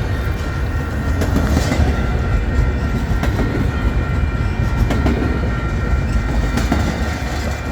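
The last cars of a Union Pacific freight train, empty flatcars, rolling past: a steady low rumble of steel wheels on the rails with the clickety-clack of wheels crossing rail joints.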